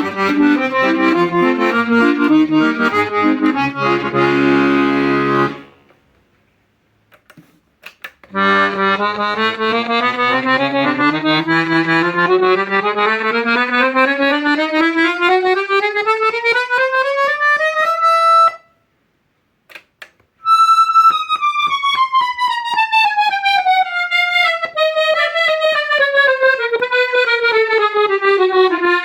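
Mantovanelli 72-bass accordion played: chords over bass notes for about five seconds, then after a short pause a slow scale stepping up note by note for about ten seconds, and after another pause a scale stepping back down. A few faint clicks fall in the pauses.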